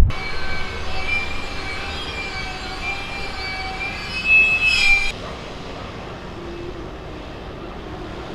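Railway carriage wheels squealing against the rails as a preserved steam train passes: several high steady whistling tones that waver a little and cut off abruptly about five seconds in. A quieter steady rumble follows.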